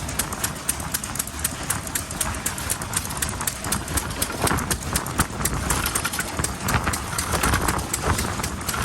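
Vintage Japanese single-cylinder stationary engines running, their exhaust beats making a steady, rapid knocking, with a low rumble of wind on the microphone.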